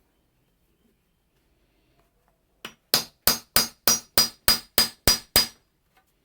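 A hammer striking the steel of an Austrian scythe blade: one light tap, then nine quick, even metallic blows at about three a second, each with a short high ring.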